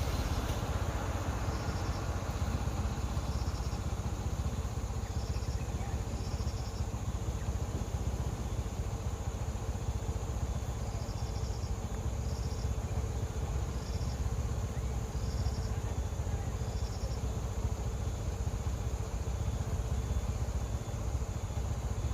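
Steady low rumble of an idling vehicle engine, with short bursts of high, rapid insect chirps recurring every second or two.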